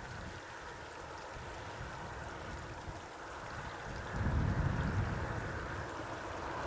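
Outdoor field ambience of wind buffeting the microphone. Low gusty rumbles grow stronger about four seconds in, over a steady high hiss.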